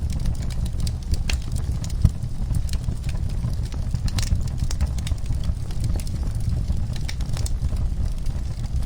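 Wood fire in a fireplace crackling, with irregular snaps and pops over a steady low rumble of the flames; one sharper pop about two seconds in.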